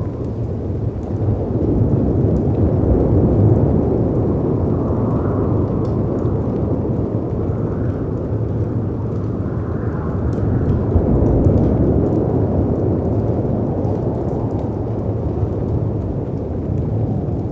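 Storm ambience: low, rumbling wind and sea surf, swelling twice, with faint scattered crackles of a wood fire.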